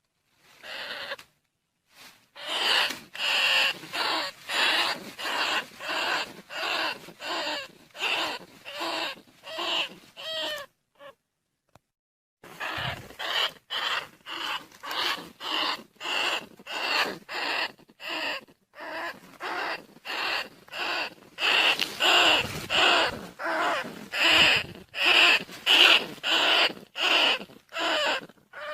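Rat lure recording of rat squeaks, used to call in field rats and bandicoot rats. Short, shrill squeaks repeat a little under two a second, stop for a moment near the middle, then carry on slightly louder.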